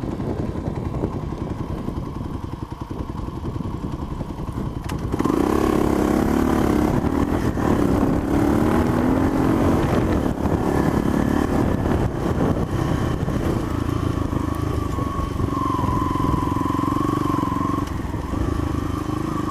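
Small dirt bike engine running at low speed, then growing louder about five seconds in and revving up and down as the bike rides on.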